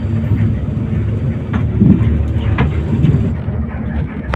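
Intercity coach bus running, a steady low rumble of engine and road noise heard from inside the cabin, with a couple of light knocks or rattles in the middle.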